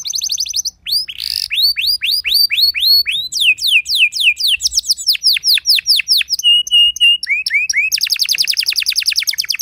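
Domestic canary singing a long, varied song: rapid trills of repeated notes, runs of quick falling whistled notes, a brief held tone past the middle, and near the end a very fast, dense trill.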